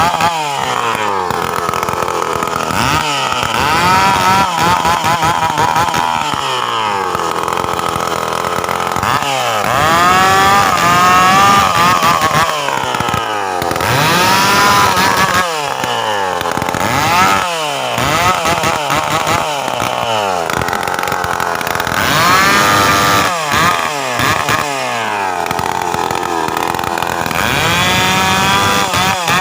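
Stihl two-stroke chainsaw engine being revved over and over, its note climbing and dropping back every few seconds.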